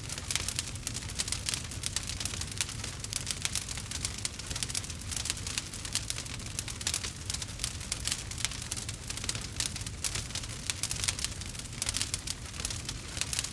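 Wood fire crackling: a dense, continuous stream of small snaps and pops over a steady low rumble.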